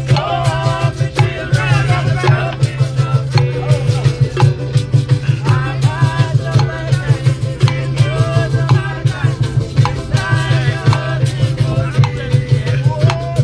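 Live folk music from a culture group: voices singing a melody over drum strokes and a shaker, with a steady low drone underneath.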